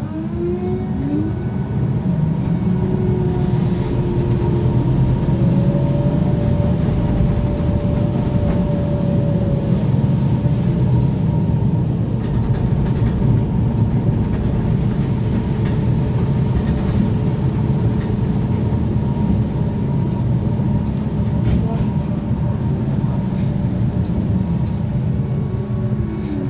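Interior of a BKM-32102 trolleybus on the move: a steady low rumble with a constant hum, and a drive whine that rises in pitch over the first few seconds and falls away near the end as the trolleybus slows.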